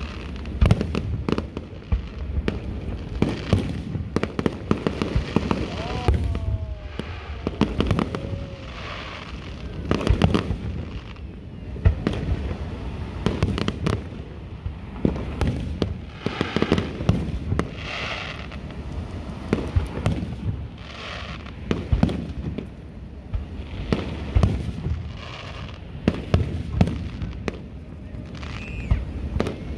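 Aerial fireworks display: shells bursting one after another in a dense, irregular series of sharp reports.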